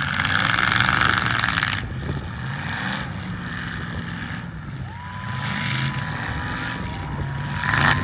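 Demolition derby car engines running and revving, with a loud burst of noise in the first two seconds and a steady high-pitched tone from about five seconds in.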